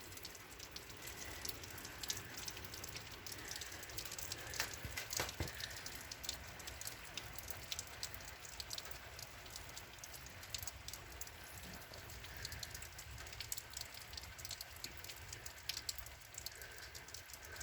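Steady rain falling, with many separate drops ticking sharply through the hiss.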